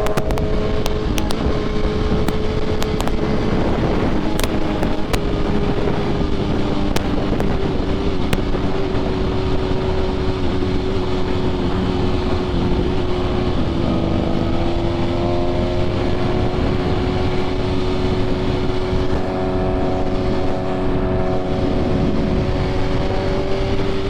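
BMW S1000RR sport bike's engine running at a steady highway cruise, its note holding nearly level with a slight dip and recovery around the middle, under constant wind rush on the rider's camera microphone.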